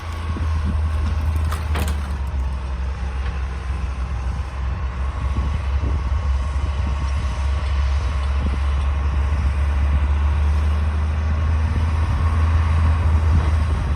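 D60 crawler bulldozer's diesel engine running steadily under load, a deep drone with a faint whine above it, growing slightly louder toward the end.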